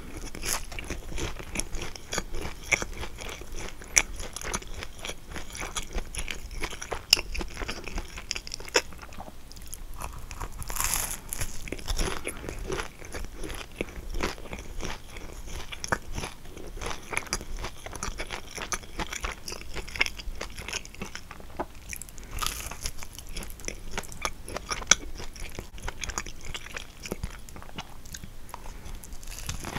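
Close-miked biting and chewing of kouign-amann, the flaky pastry's caramelised sugar crust crunching and crackling in many quick, sharp crunches.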